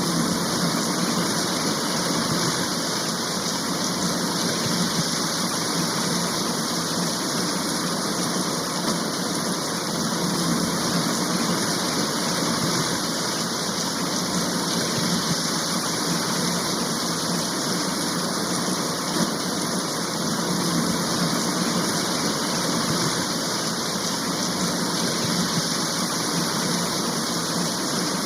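A rain shower falling heavily and steadily, an even unbroken hiss with no pauses or changes in strength.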